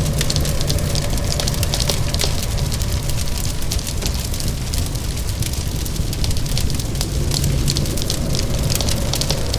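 Wood fire crackling with many small snaps, over a steady low rumble and the hiss of rain.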